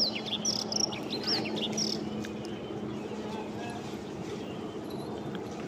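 Small birds chirping in quick, rapid calls during the first two seconds, then only faintly, over a steady low hum.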